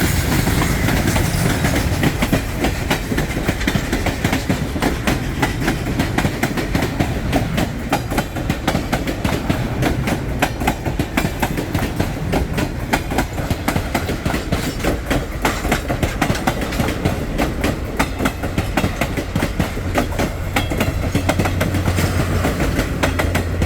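Train cars rolling past, their wheels clicking rapidly and continuously over rail joints, with a steady rumble that grows deeper near the end.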